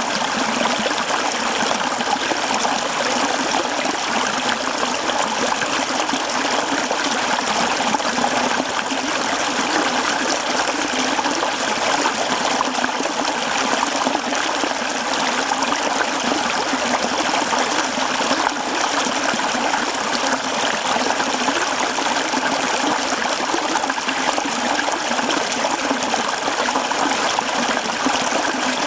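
Mountain stream flowing over rocks: a steady, unbroken rush and babble of running water.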